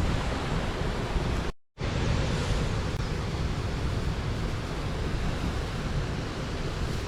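Steady rushing of water pouring over a small river weir, a dense hiss with a deep rumble under it. It drops out to silence for a moment about one and a half seconds in, then comes straight back.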